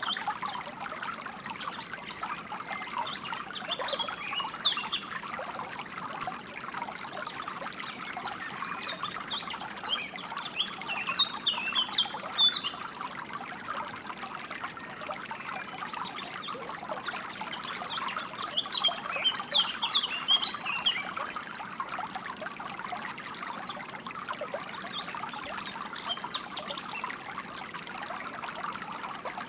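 Shallow flowing water trickling steadily, with small birds' chirping song breaking in four times, every several seconds.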